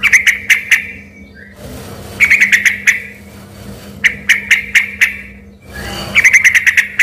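Yellow-vented bulbul (trucukan) singing in four short bursts of rapid, sharp, bubbly notes about two seconds apart.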